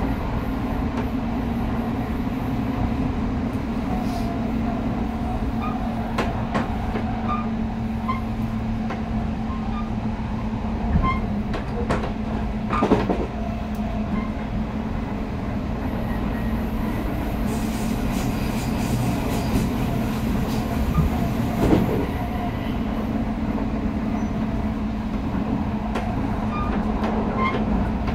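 Odakyu electric train running at steady speed, heard inside the passenger car: a continuous low rumble of wheels on rail with a steady hum, and a few sharp clicks now and then.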